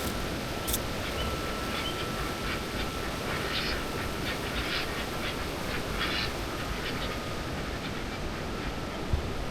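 A few short, rough animal calls in the middle of the clip, over steady outdoor background noise and a faint steady high tone.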